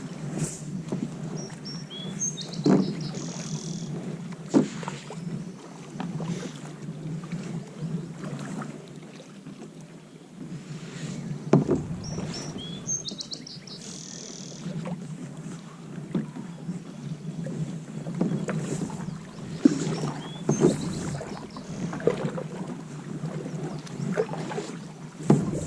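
Kayak paddling on calm water: irregular paddle strokes dipping and splashing, with a few sharper knocks, over a steady noise of water and wind on the boat. A bird gives a short high chirping phrase three times.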